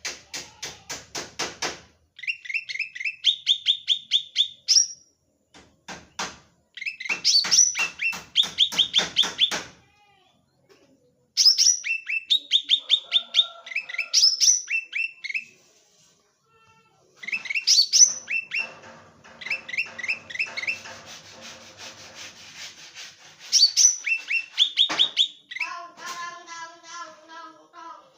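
Cucak ranting songbird singing in full voice: repeated phrases of rapid, sharp, high chirping notes a few seconds long, broken by short pauses.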